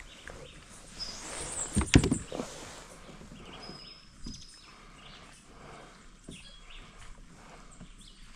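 Outdoor ambience with faint, short bird calls, broken about two seconds in by a brief, loud cluster of knocks and rustling.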